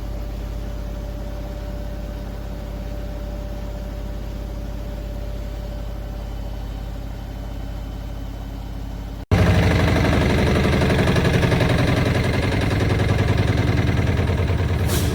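Candy RapidO washing machine running with a steady low hum, then, about nine seconds in, an abrupt change to a much louder running sound with a fast pulsing. The noise is the exaggerated internal noise that the owner puts down to something rubbing or out of adjustment inside.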